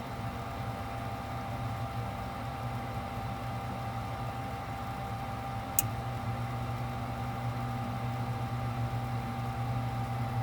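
GrandAire gas furnace firing on a test run, its newly replaced induced draft motor running with a steady hum and a thin steady tone. A single sharp click comes about six seconds in.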